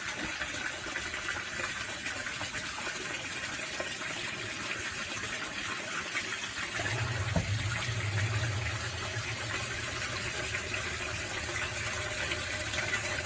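Water gushing steadily from a running submersible sump pump's discharge, with a low hum joining about halfway through.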